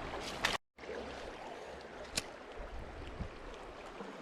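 Creek water running, a steady rush, with one sharp click about two seconds in.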